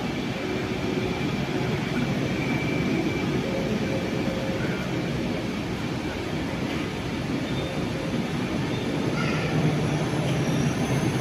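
Double-deck DB regional express train pulling slowly out of the station, its coaches rolling past with a steady rumble. A low hum grows louder near the end as the electric locomotive at the rear draws close.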